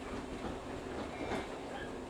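A local train running on the line, heard from inside the passenger car: a steady rumble of wheels on rails with a couple of sharp clicks a little past the middle.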